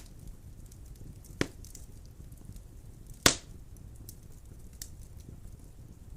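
Wood fire burning in a fireplace: a low steady rumble of the flames with small crackles, and two sharp pops of burning wood, about a second and a half in and a louder one past the middle.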